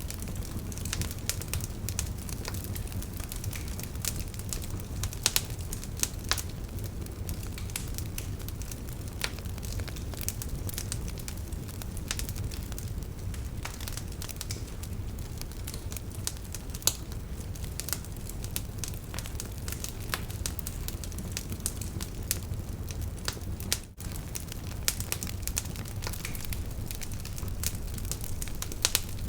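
Wood campfire burning: a steady low rumble of flames with frequent irregular crackles and sharp pops from the burning wood.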